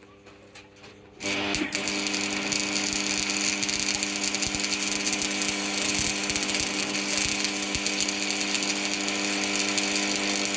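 Electric power tool motor starting up about a second in and then running steadily at a constant pitch with a hiss.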